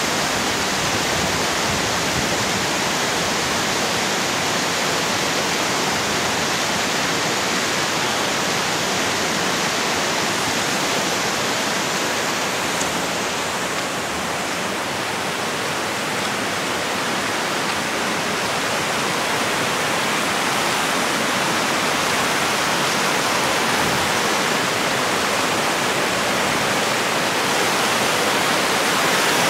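Creek water rushing steadily, an even unbroken noise.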